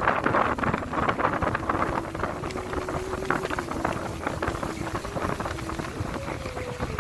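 Wind buffeting the microphone over a steady engine hum with a slightly wavering pitch.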